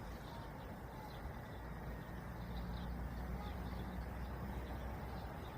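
Wind with faint, repeated high bird chirps over a steady low rumble.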